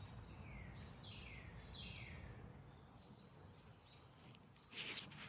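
A bird calling faintly: about four short, downward-sliding whistled notes in the first couple of seconds, over a low steady background rumble. A short soft noise comes near the end.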